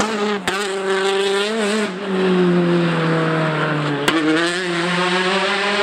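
Rally car engine running at high revs, its pitch sliding down over a couple of seconds and then jumping back up, with two sharp cracks, about half a second and about four seconds in.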